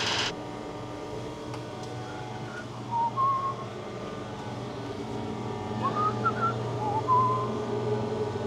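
A person whistling short, wavering notes in two brief phrases, over a steady low hum.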